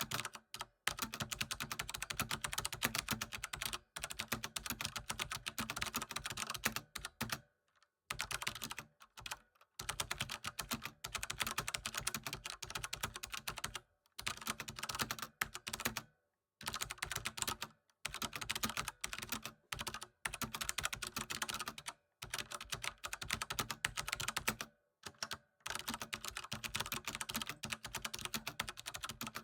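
Computer keyboard being typed on in quick continuous runs of key clicks, broken by short pauses every few seconds.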